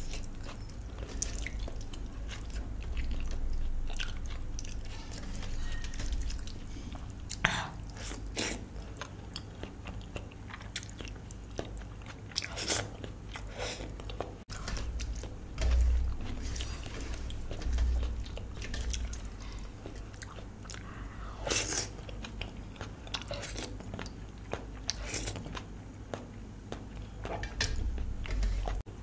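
A person eating close to the microphone: chewing and biting, with irregular short wet clicks and smacks and an occasional low bump.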